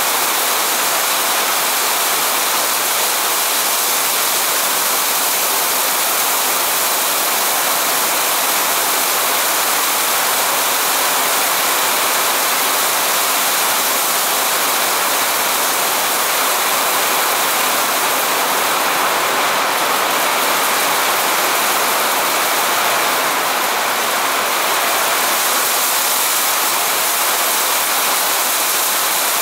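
Heavy rain falling steadily, an even hiss that holds constant without a break.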